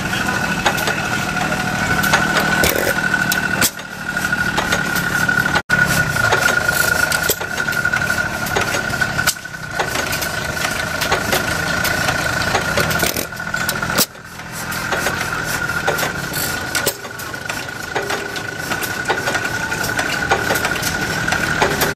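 Vintage stationary engines running, with many irregular knocks and pops from their firing strokes and a steady high whine through most of it. The sound breaks off sharply about five and a half seconds in, and dips again around ten and fourteen seconds.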